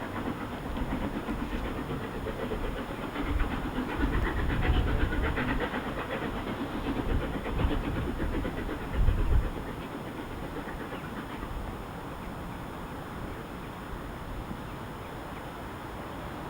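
LMS Royal Scot class three-cylinder steam locomotive 46100 working a train past, its exhaust and train loud for several seconds, then easing away to a steady lower rumble, with wind buffeting the microphone.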